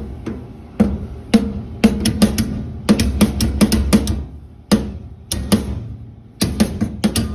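Hammer striking channel-lock pliers laid on a copper tee fitting: close to twenty sharp metallic taps in uneven clusters, each with a short ring. The blows are driving the tee down onto the copper pipe.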